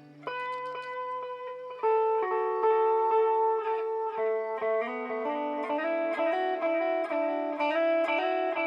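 Guitar played through a BOSS DD-8 digital delay pedal in Warp mode. Picked notes start just after the opening and get louder about two seconds in, with echoes layering into a wash of overlapping sustained notes.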